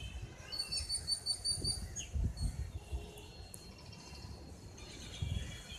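Birds chirping: a run of short, quick high chirps about half a second in, then a few brief downward-sliding calls, over low thuds.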